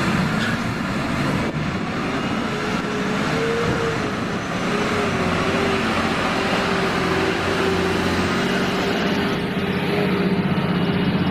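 Liebherr excavator's diesel engine running steadily while it works, with a whine that wavers slightly in pitch.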